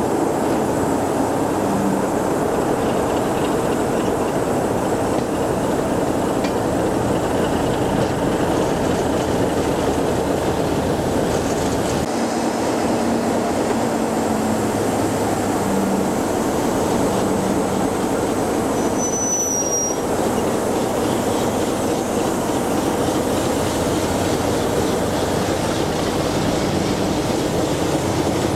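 Diesel-hauled train running, heard from an open coach window: a steady rumble of wheels on the rails under the diesel locomotive's engine working at the head of the train. A brief high squeal comes about two-thirds of the way through.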